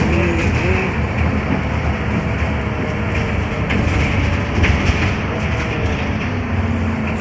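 Cabin noise of a Scania K320UB hybrid bus on the move: a steady low drivetrain hum and road rumble, with a faint whine that drifts a little in pitch.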